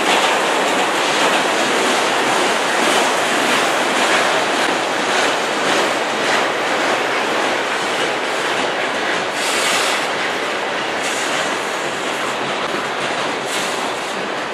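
Freight train cars, mostly boxcars, rolling past close by: a steady, loud rush of wheel-on-rail noise with faint repeated wheel clicks.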